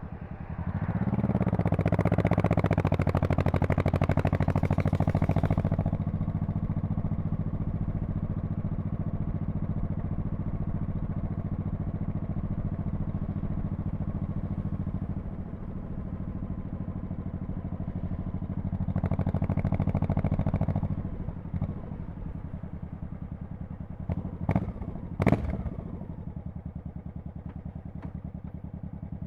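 Honda Shadow Spirit VT1100C V-twin motorcycle engine and exhaust. It pulls away from low revs with rising pitch, runs steadily for a stretch and eases off. It picks up once more, then drops back to a low rumble, with two sharp clicks near the end.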